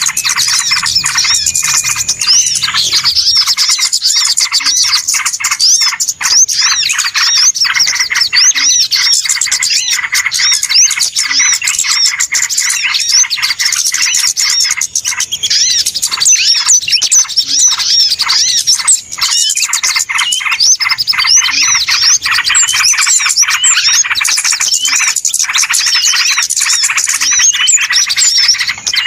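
Noisy chorus of many small birds chirping and twittering at once, with rapid overlapping high chirps and no pause. This is a bird-luring recording (suara pikat) meant to draw small birds in.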